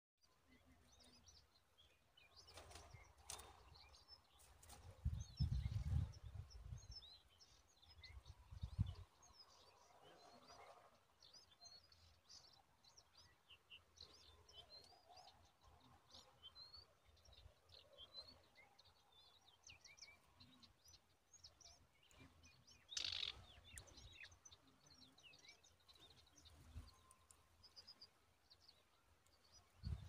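Many short, faint bird chirps scattered throughout, high in pitch. A few low thumps come around five to nine seconds in, and a brief, louder noisy burst about 23 seconds in.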